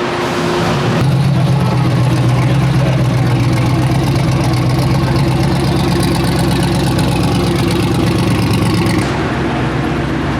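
Large V8 engine idling steadily. It gets louder about a second in and drops back near the end.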